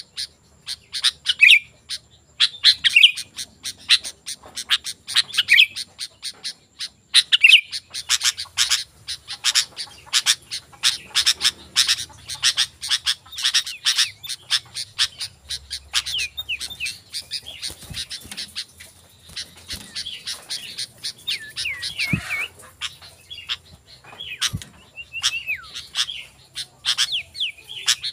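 Sooty-headed bulbul (kutilang) singing busily: a continuous stream of short bright chirps and whistled phrases, repeated over and over.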